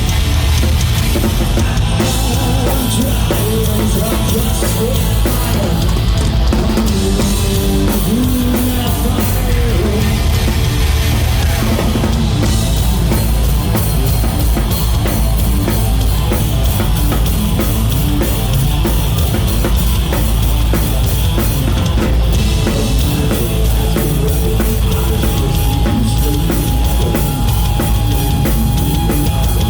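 A live hard rock band playing loud and without a break: a drum kit with bass drum drives a steady beat under electric guitars and bass.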